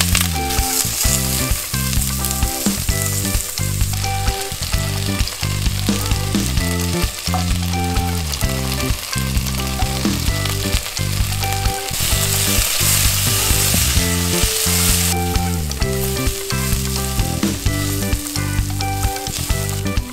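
Sliced red onions and garlic sizzling in hot oil in an enameled cast-iron pot, stirred with a silicone spatula. The sizzle swells for a few seconds about midway. Background music plays over it.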